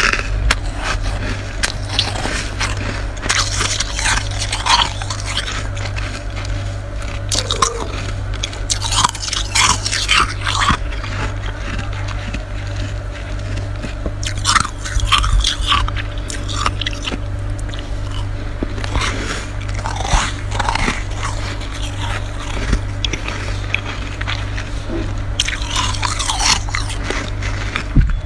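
Freezer frost being bitten and chewed close to the microphone: irregular crisp crunches in clusters, over a steady low hum.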